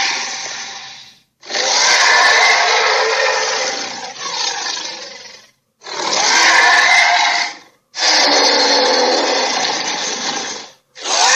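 Giant ape (King Kong–style) roar sound effects played back to back: a string of rough, raspy roars, each two to four seconds long, cut apart by short silences.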